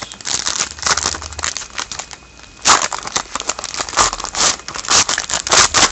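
Plastic-foil trading card pack wrapper being torn open and crinkled, with irregular crackling that gets louder in bursts about three seconds in and again near the end.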